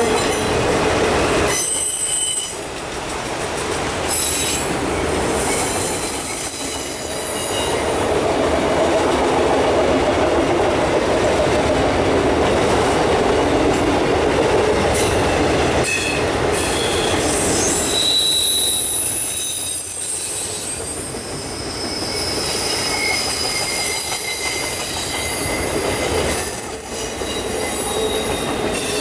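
Freight train of autorack cars rolling past: steady rumble and rattle of steel wheels on rail, with high-pitched wheel squeal coming and going.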